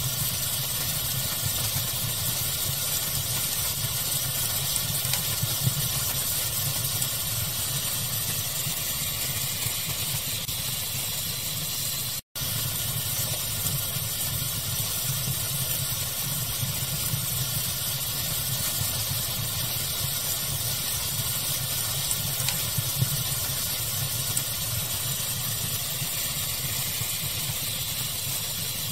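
Steady pink-noise hiss mixed with a crackling fire, with a few slightly louder crackles. The sound cuts out for an instant about twelve seconds in, then carries on unchanged.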